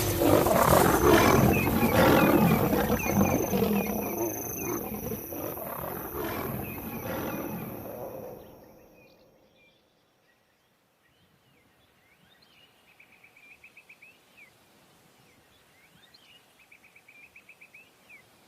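Lions roaring and fighting in an attack by nomad males on the pride, dying away after about eight seconds. Then faint, short chirping trills follow in the quiet.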